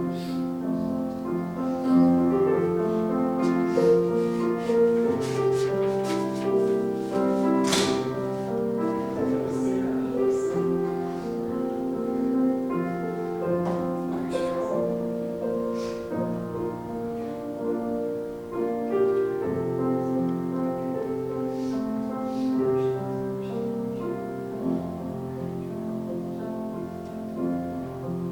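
Piano or keyboard playing slow, sustained chords.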